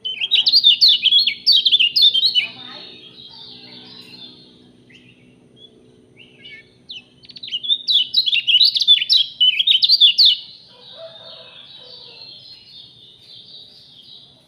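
A songbird singing two bursts of rapid, sweeping chirps, each fading into a softer trill; the second burst comes about seven seconds after the first.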